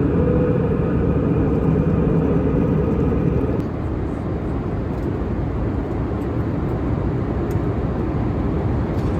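Airbus A320 engine and airflow roar heard inside the passenger cabin, steady and loud with a faint whine. About three and a half seconds in the roar drops a step in level and stays lower.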